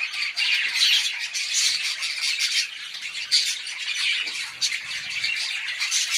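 A flock of small birds chirping and chattering together, many short high calls overlapping continuously.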